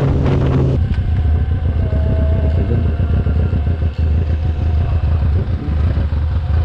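Yamaha R6 sport bike running: a steady engine hum drops away about a second in, leaving a low, uneven rumble.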